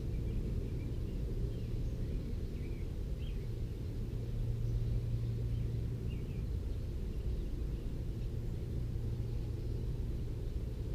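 Steady low rumble with a hum that swells around the middle, over which a few faint, short bird chirps sound in the first few seconds and again about six seconds in.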